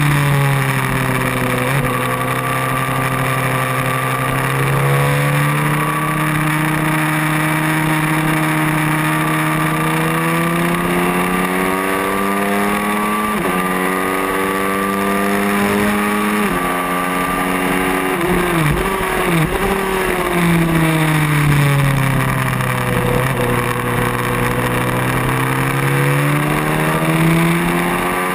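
Racing motorcycle engine at full throttle on track, its pitch climbing and then dropping sharply at two upshifts about halfway through, falling through quick downshifts into a corner a little later, then rising again as it pulls out. Wind noise rushes across the microphone throughout.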